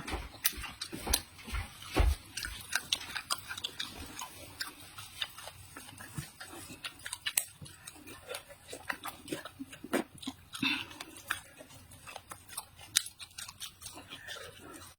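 Close-up mouth sounds of a person chewing vegetables: a dense run of irregular wet clicks and smacks, with a few stronger bites near the start.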